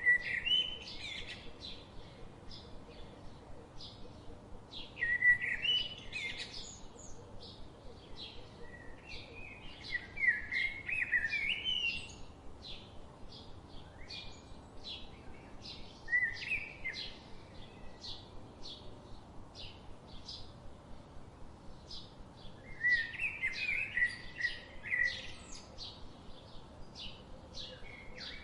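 Birds calling: a steady series of short high chirps about twice a second, with louder bursts of warbling song every few seconds.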